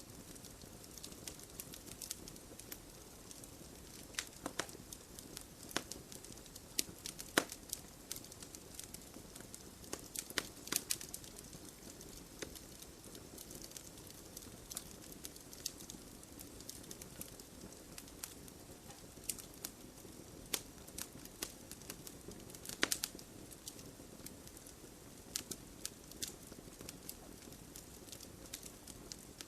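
Wood logs burning in a fireplace: a steady low rush of flame under irregular crackles and sharp pops, a few of them louder.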